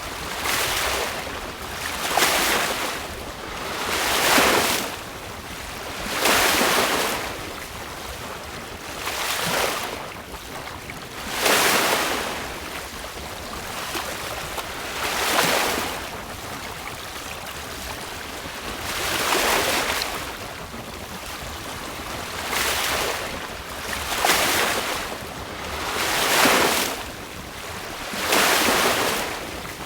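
Choppy seawater rushing and splashing along a sailboat's hull, swelling and fading in surges about every two seconds, over a steady hiss of wind.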